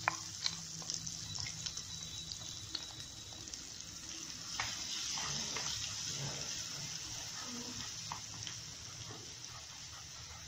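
Wet onion-tomato masala paste sizzling in hot oil in a kadhai as it is fried, with a spatula stirring and scattered scraping clicks. The sizzle swells about halfway through, then slowly eases.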